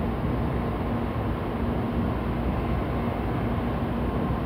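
N700A Shinkansen train pulling into the station to stop, giving a steady rumble of wheels and running noise.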